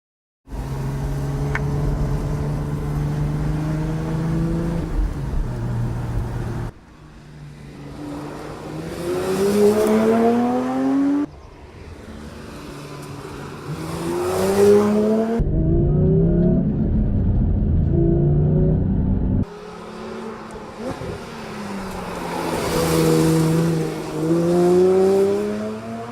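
Porsche 911 Speedster's four-litre naturally aspirated flat-six engine accelerating hard, its pitch climbing again and again, in several takes that change suddenly. In one take near the end the pitch dips before rising again.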